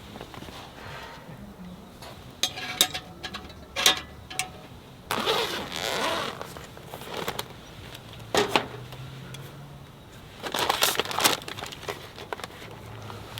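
Camp cooking gear being handled: scattered clinks and knocks, with a longer stretch of rustling about five seconds in and another group of knocks near eleven seconds.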